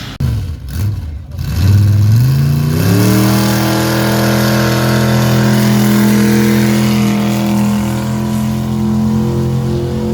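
A pulling vehicle's engine revs up quickly about two seconds in, then holds steady at high revs under load, as on a pull run.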